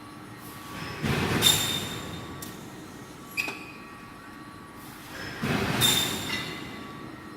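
Machinery of a railway tie plate induction hardening line: two swells of metallic scraping with a high squeal, about a second in and again near the end, and a sharp click between them.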